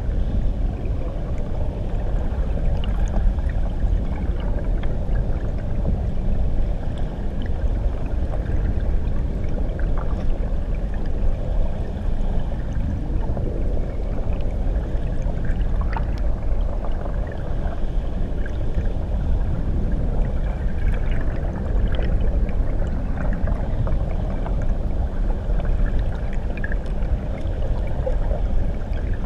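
Churning water below a waterfall, heard underwater: a deep, muffled, steady rumble with faint scattered bubbling pops.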